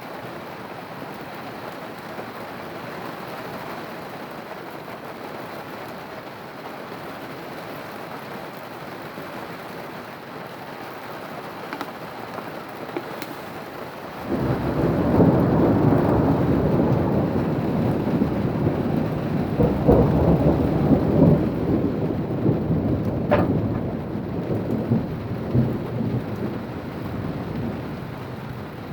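Steady rain, then about halfway through a sudden loud thunderclap that rolls on, rumbling for over ten seconds, and eases near the end.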